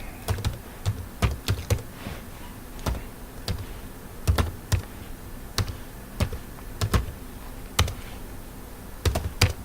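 Computer keyboard being typed on: irregular, spaced-out keystrokes as a terminal command is entered, with a quick cluster of keys near the end.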